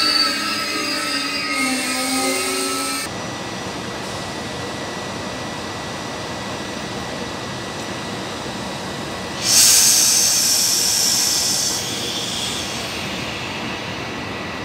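Passenger train wheels squealing in several high tones on the rails, which stop abruptly about 3 s in. Then an electric locomotive, an E.464, runs with a steady rumble and a faint high whine, and about 9.5 s in lets out a loud hiss of compressed air that fades over a couple of seconds.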